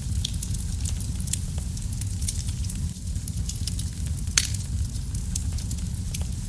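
Wood fire burning in a fireplace: a steady low rumble of flames with many small crackles and snaps, and one louder pop about four and a half seconds in.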